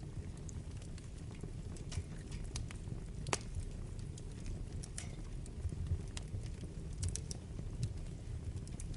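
Wood fire burning in a fireplace: a steady low rumble of the flames with irregular sharp crackles and pops from the burning logs, a sharper pop about a third of the way in and a quick cluster of snaps near three-quarters through.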